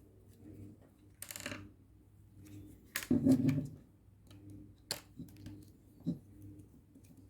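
Hands handling a car door lock assembly: scattered small clicks and knocks, a short scrape about a second in, a louder knock and rattle about three seconds in and a sharp click about five seconds in. A faint steady hum sits underneath.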